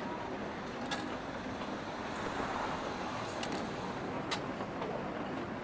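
Steady hiss of rain falling outside, layered with a soft café ambience, with a few sharp clicks standing out about a second, three and a half and four and a half seconds in.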